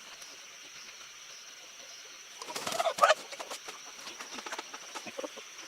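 Chickens: a short burst of clucking about halfway through, over a faint steady high-pitched tone.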